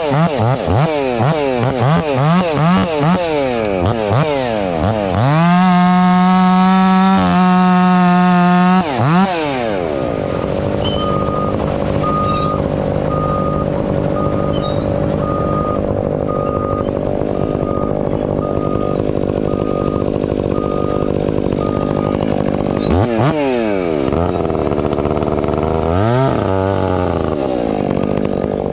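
Husqvarna 500i two-stroke chainsaw revved in quick blips, then held at high revs for a few seconds. It drops to a long steady idle and is revved up twice again near the end.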